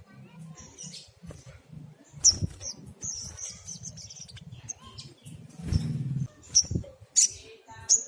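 Sunbird calling: short, sharp high chirps in scattered bursts, over low fluttering or rustling sounds.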